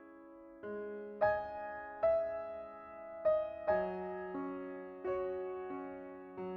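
Soft, slow background piano music: single notes and chords struck about once a second, each ringing and fading.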